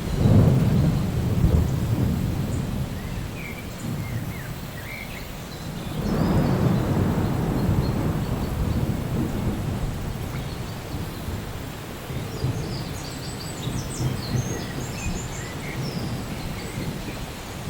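Thunder rolling over steady rain: one low rumble breaks right at the start and a second about six seconds in, each slowly fading away.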